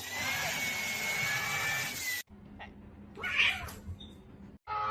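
Domestic cat meowing. A drawn-out cry gives way suddenly to a quieter stretch about two seconds in, and a short, louder meow follows about a second later.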